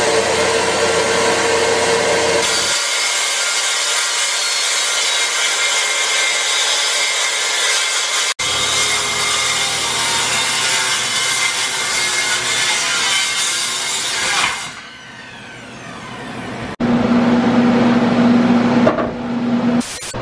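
Power saw cutting through a wooden bathroom subfloor, running with a steady motor hum and dropping off briefly near the end.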